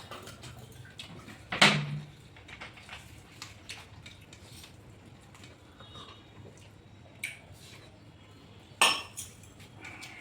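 Dishes and utensils clinking during a meal of curry and rice: one sharp clink about one and a half seconds in, two more in the last few seconds, and small clicks and taps between.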